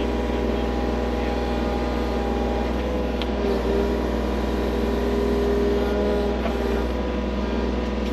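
Skid loader engine running steadily while digging a drainage trench, with one short knock about three seconds in.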